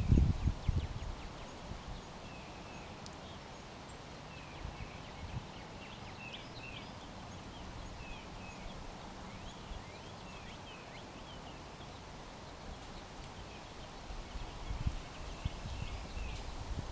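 Small backyard birds chirping: many short, high chirps scattered through the whole stretch. A loud low thump comes right at the start, and low rumbling bumps come near the end.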